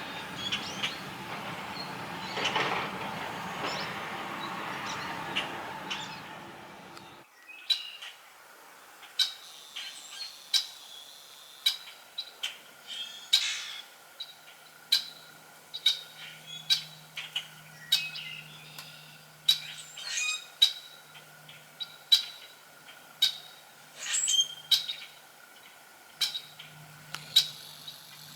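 Small birds chirping outdoors, with sharp, short calls repeating about once or twice a second. For the first seven seconds a steady noisy background runs under the chirps, then it cuts off suddenly, leaving the chirps over a quiet background.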